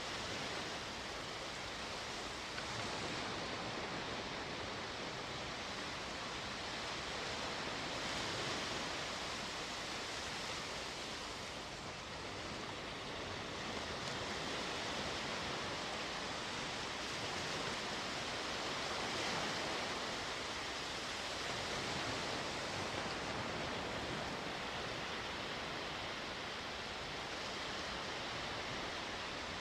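Sea waves washing onto the shore: a steady rush of surf that swells and eases gently a few times.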